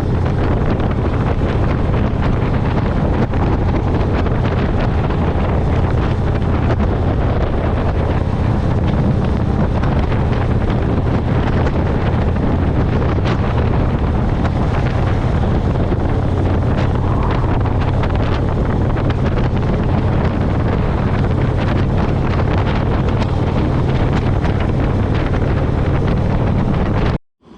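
Motorcycle riding at a steady speed: the engine running evenly under heavy wind noise on the microphone. It cuts off suddenly near the end.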